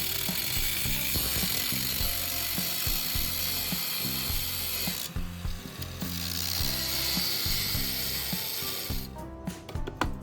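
Steady, high-pitched noise of a tool cutting into the steel shell of an old pressure tank. It breaks off briefly about five seconds in, stops about nine seconds in, and a few sharp clicks follow. Background music runs underneath.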